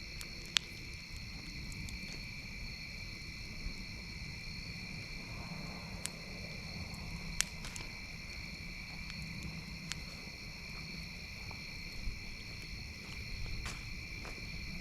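A campfire crackling, with single sharp pops every second or two, over a steady high-pitched insect chorus.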